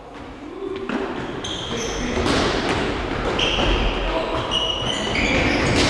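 Futsal game in a sports hall: the ball thudding off feet and the floor, short high squeaks of shoes on the court, and players' shouts, all echoing. It grows louder after about a second.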